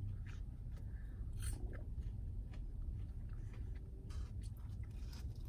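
Close-up chewing and biting of fast-food chicken tenders, with scattered small crunches and wet mouth clicks over a steady low hum.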